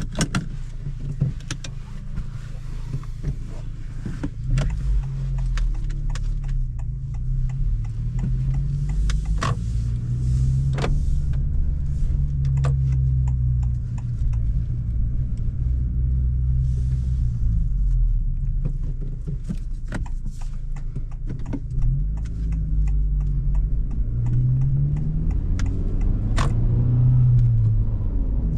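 2025 Honda Civic Si's 1.5-litre turbocharged four-cylinder engine pulling away and running through the gears, its pitch rising and dropping several times, with scattered sharp clicks.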